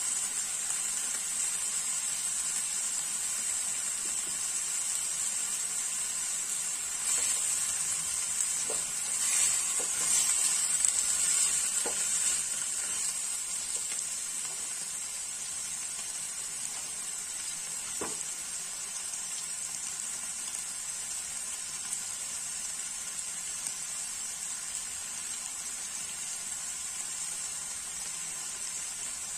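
Chopped tomatoes frying in hot oil in a frying pan, a steady sizzling hiss. It swells for several seconds about a third of the way in, with a few light clicks.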